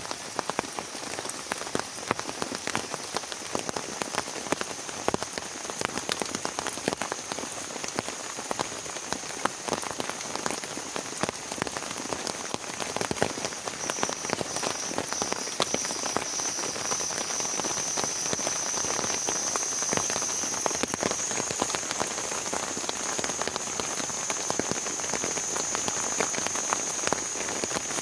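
Heavy rain falling, a dense steady patter of drops striking a surface. A steady high-pitched whine comes in about halfway and grows louder.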